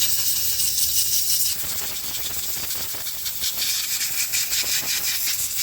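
A steady hiss like a jet of air or spray. About a second and a half in it turns rougher, with a fast rattling texture.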